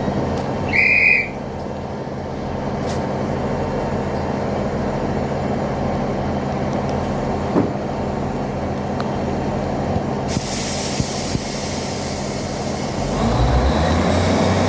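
Class 159 diesel multiple unit running at the platform with a steady engine hum. A short high beep comes about a second in and a hiss of air starts around ten seconds. Near the end the engines rise in level as the train pulls away.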